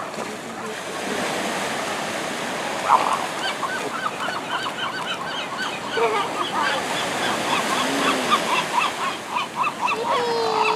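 Gulls calling in a rapid series of short, harsh notes, several a second, over the steady hiss of surf. A long drawn-out call begins near the end.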